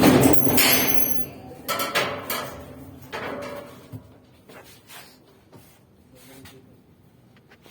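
Clattering and knocking of hard objects being handled, loud at first, then a few sharp knocks that fade to light clicks.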